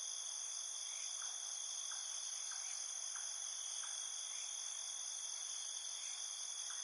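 Steady high-pitched insect chorus of crickets, with faint short chirps repeating about every half second.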